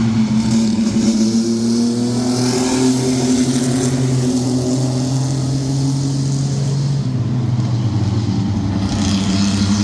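Several racing mini trucks' engines running hard together as the field laps the track, a steady engine drone that rises and falls slightly in pitch and climbs near the end.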